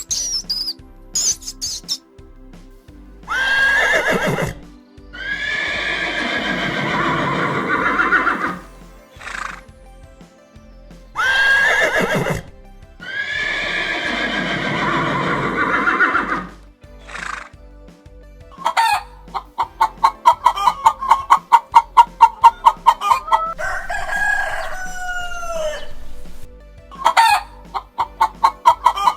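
Rooster crowing, two long crows one after the other, then a fast run of short repeated clucking pulses with another brief call in the middle.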